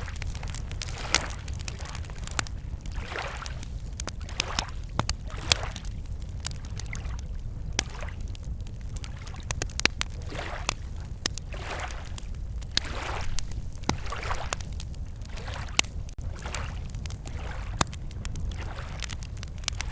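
Wood campfire crackling and popping with sharp snaps throughout, while small waves lap against the shore in soft swells about every second or so over a low steady rumble.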